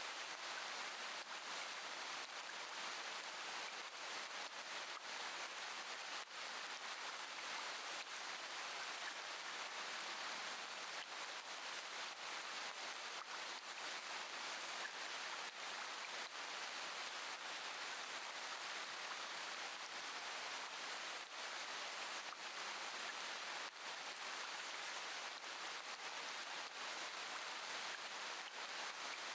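Steady rain falling, an even hiss with a faint patter of drops and no thunder.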